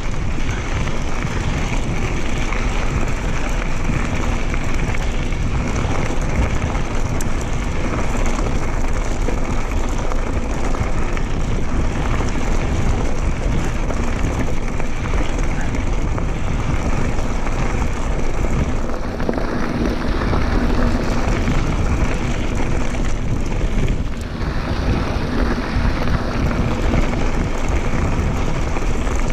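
Mountain bike riding along a dirt trail: steady wind rushing over the microphone mixed with the rolling and rattling of the bike.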